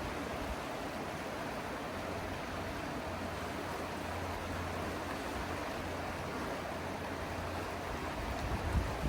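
River water flowing and rushing steadily, with a couple of brief low thumps near the end.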